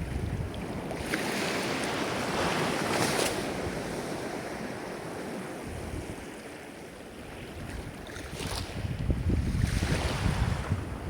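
Ocean waves breaking and washing ashore: one surge builds about a second in and ebbs away, then another rolls in near the end. Wind buffets the microphone with a low rumble.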